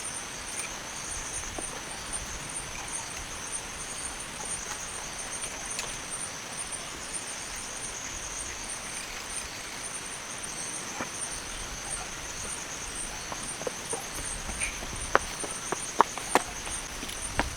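Steady, high-pitched insect chorus, crickets or similar, with an even pulsing trill. Several sharp knocks come in quick succession near the end.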